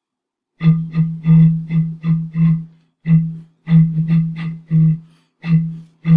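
A jug blown as a wind instrument, jug-band style, playing a rhythmic run of short notes all on the same low pitch, grouped in phrases with short pauses between them.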